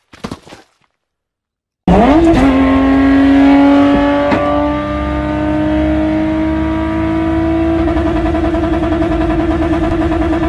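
A brief burst of noise, then about two seconds in a loud vehicle engine cuts in at high revs. Its pitch jumps up quickly, then climbs slowly and steadily as it accelerates.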